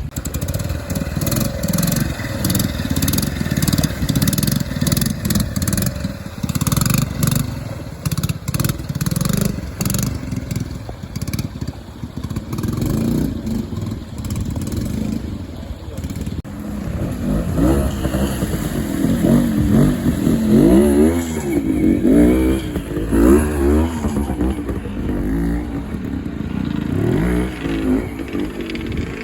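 Trials motorcycle engine running and revving up and down over and over as the bike is ridden through a section. It is loudest and revs hardest a little past the middle. There is scattered clattering in the first half.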